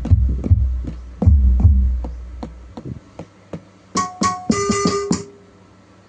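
Roland HandSonic HPD-20 electronic hand-percussion pad being played: a quick run of drum hits with deep bass, then a few short pitched tones about four seconds in. The output sounds clean, with no squealing noise, after a faulty IC was repaired.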